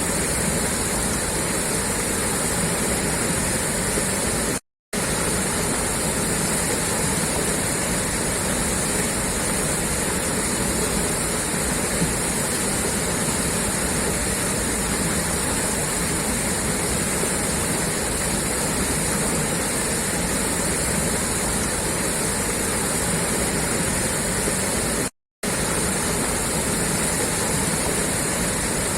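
Water gushing steadily out of a pipe outlet: a dense, even rush of falling water. It cuts out to silence twice, very briefly.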